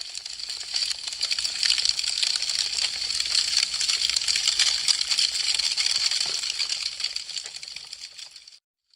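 Burning wood crackling: a dense, fast stream of small pops and snaps. It swells up over the first couple of seconds and fades out to silence just before the end.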